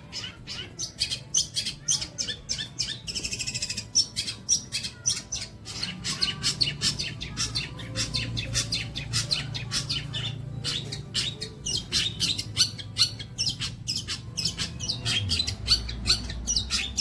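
Long-tailed shrike (cendet) singing a fast, unbroken stream of short chirps and harsh notes, with a buzzy trill about three seconds in. A low hum runs underneath from about six seconds in.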